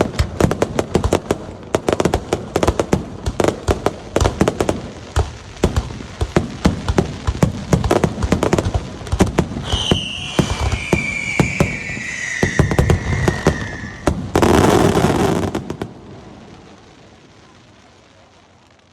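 Fireworks display: rapid volleys of sharp bangs from bursting shells, with a whistle falling in pitch about ten seconds in. A loud dense burst comes near fifteen seconds, then the sound fades away.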